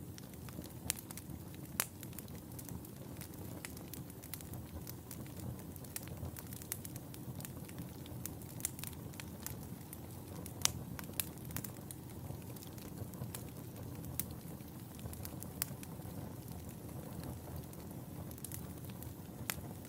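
Wood fire burning in a fireplace: a steady low rumble of flames with irregular sharp crackles and pops scattered throughout, one louder pop about ten and a half seconds in.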